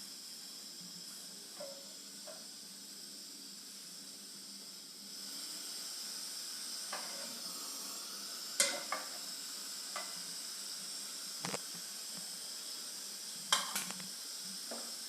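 Oil sizzling in a frying pan, getting louder about five seconds in. A few sharp clinks of a utensil against the pan come later.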